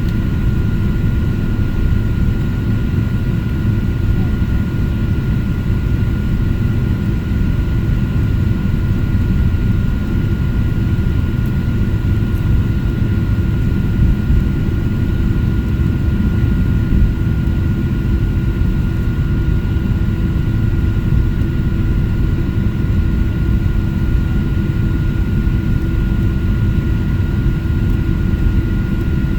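Airplane engines running steadily as the plane taxis: a constant low rumble with a thin, steady whine over it.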